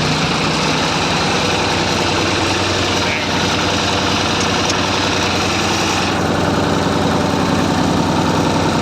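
Massey Ferguson 35 tractor engine running steadily, pulling a plough.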